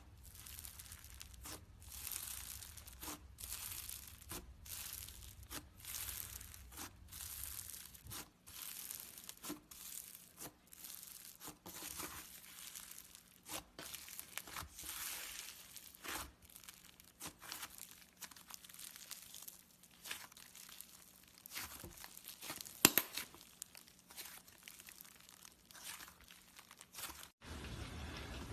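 Butter slime being stretched, pressed and pulled apart by hand: a run of soft sticky crackles and tearing sounds, with one sharp click about three quarters of the way through.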